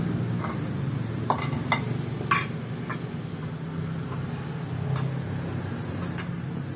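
A few light clinks of cups or dishes knocking together, over a steady low hum.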